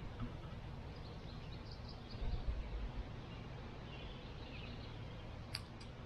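A few faint bird chirps over steady outdoor background noise, with a brief low rumble about two seconds in and a sharp click near the end.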